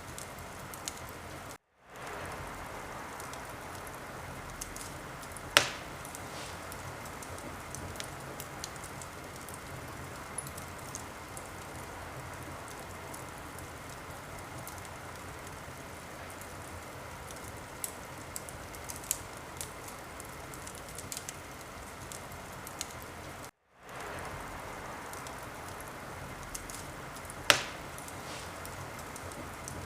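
Wood fire crackling over a steady hiss, with scattered small crackles and two loud sharp pops. The sound cuts out completely twice for a split second and fades back in, as at the seams of a looped recording.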